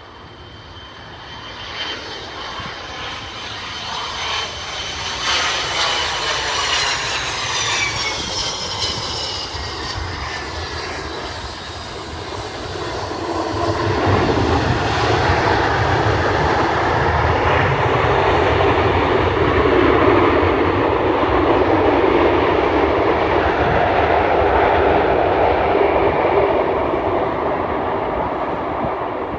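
Boeing 727-200's three JT8D turbofan jet engines as the airliner lands: a high engine whine falls in pitch as it passes, then a louder, broad roar builds and holds for about twelve seconds before easing off near the end.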